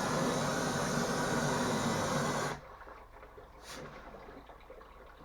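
Steady loud hissing roar of a gas cutting torch working on the steel heating-main pipe, shut off abruptly about two and a half seconds in. Faint drips and small clicks follow.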